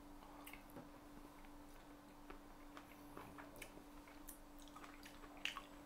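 Faint chewing of fresh fruit: scattered soft wet mouth clicks, with a steady low hum beneath.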